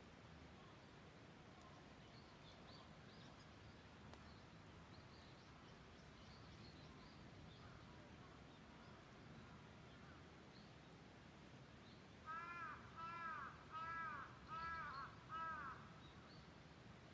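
A crow cawing five times in quick succession, each caw a short arched call, starting about twelve seconds in. Before that only faint outdoor background with a few faint high chirps.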